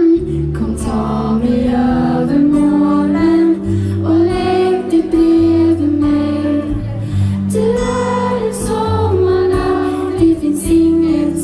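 Pop band playing live, with a lead vocal sung over sustained low bass notes and drum hits.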